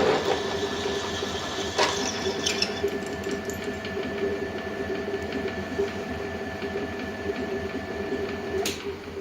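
Home-built belt sander running steadily with a hum of several fixed tones and a few clicks. Near the end it is switched off with a click, and the sound dies away.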